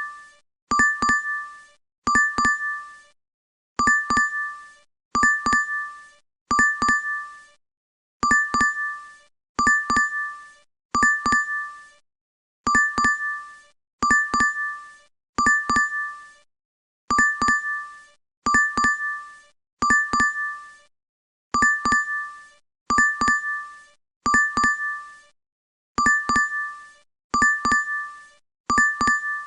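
DoorDash app notification chime playing over and over: a bright two-tone ding. Each ding opens with a quick double strike, then rings and fades. They come in runs of three or four, with a short pause between runs.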